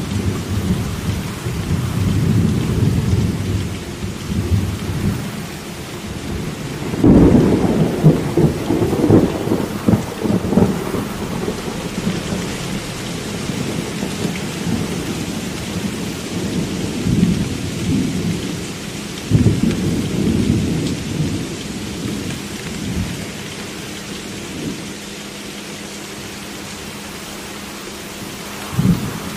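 Thunderstorm: steady rain with rolling thunder. A loud thunderclap breaks about seven seconds in and rumbles on for several seconds, and another sudden peal comes about two-thirds of the way through.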